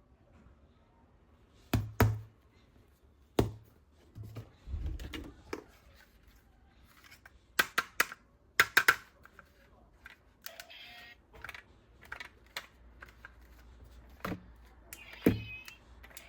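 Plastic toys and packaging being handled: a series of sharp clicks and knocks, some with a dull thud, loudest about two seconds in and in a quick cluster around eight to nine seconds.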